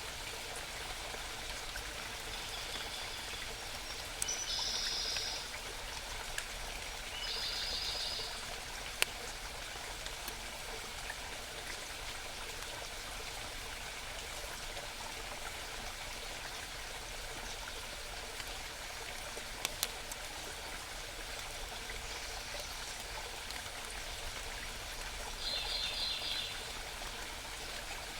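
A small mountain stream babbling steadily, with a songbird giving several short trills of rapidly repeated high notes, three in the first eight seconds or so and one near the end.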